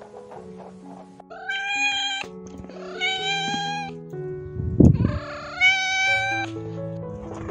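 A cat meowing: three long, drawn-out meows, with a dull thump between the second and third. Background music with steady held notes plays underneath.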